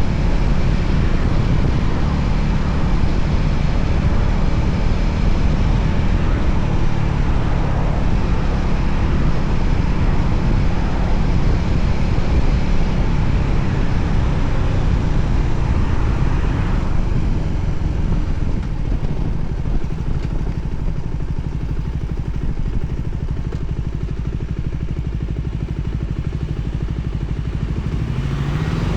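Voge 300ACX motorcycle's single-cylinder engine running under way, with a steady rush of wind and road noise. The rushing eases about two-thirds of the way through. Near the end the engine rises in pitch as it revs up.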